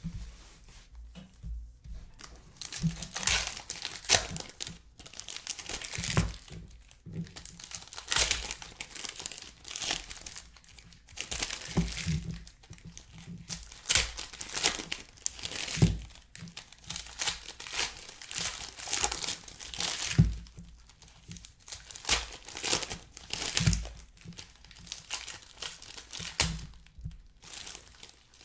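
Trading card pack wrappers being torn open and crinkled while the cards are handled, in repeated irregular rustling bursts.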